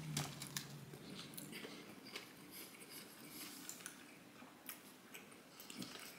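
Faint chewing and mouth sounds of a person eating fast food, with scattered small clicks and smacks.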